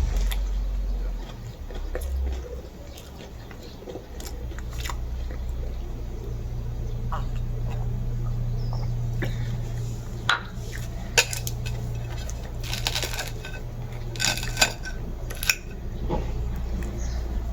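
Scattered light clicks and knocks of objects being handled, over a steady low hum; a few sharper clicks come about ten and fourteen seconds in.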